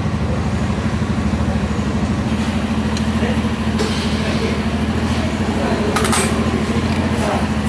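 An engine idling steadily, with an even low pulse.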